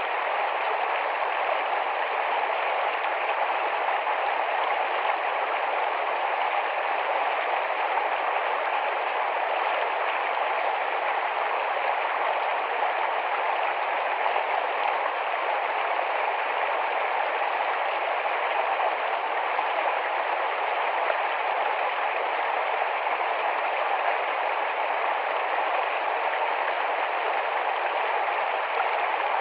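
Shallow, rapid forest stream rushing and babbling over stones, a steady, even rush of water.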